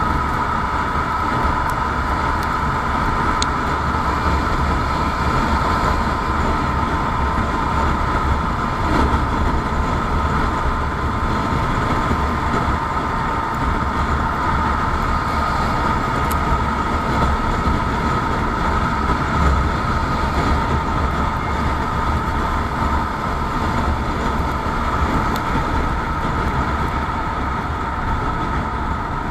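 Motorcycle running at a steady speed: a constant drone with a low rumble and a steady whine that holds one pitch.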